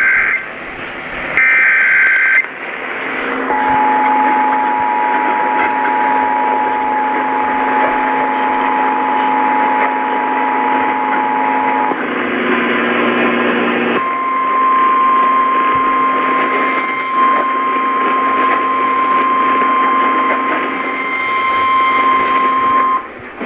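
Emergency Alert System warning tones heard over radio static. A short burst of digital header tones, then the EAS two-tone attention signal held steady for about eight seconds. After a brief noisy gap, the single 1050 Hz weather-radio warning tone sounds for about nine seconds.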